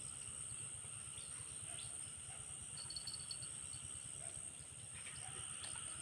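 Steady high-pitched insect chorus, with a few short chirps about halfway through over a low steady rumble.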